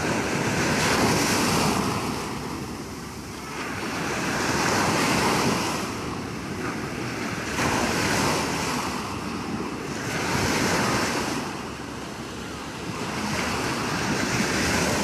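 Sea waves breaking and washing in, the surf swelling and fading in surges about every three to four seconds.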